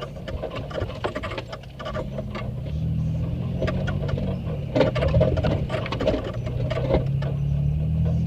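Off-road 4x4's engine revving up and down under load while crawling over rough rocky ground, with repeated knocks and rattles from the vehicle jolting over the terrain.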